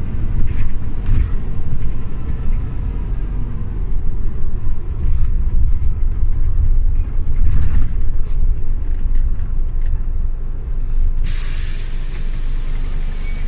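Scania OmniLink CL94UB city bus running with a low rumble and scattered rattles and knocks. About eleven seconds in, a loud hiss of compressed air from the bus's pneumatics starts and runs on.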